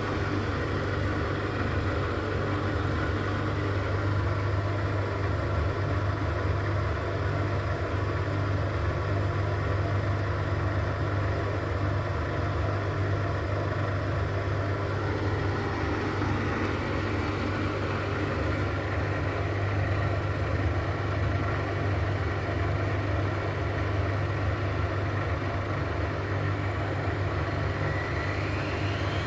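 Indesit washing machine in its 1000 rpm spin cycle: the motor and drum spinning at a steady speed with an even, constant hum.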